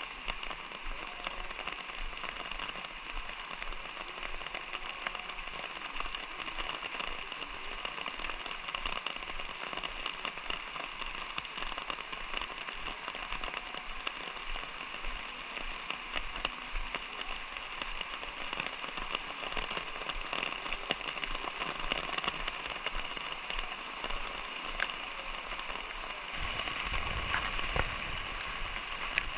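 Light rain falling steadily, a dense patter of small drops. A low rumble joins near the end.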